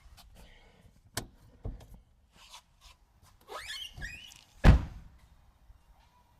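Knocks and clanks of tools and parts during rear wheel hub work on a car: two sharp knocks, a brief squeak, then one heavy thunk, the loudest, about three-quarters of the way through.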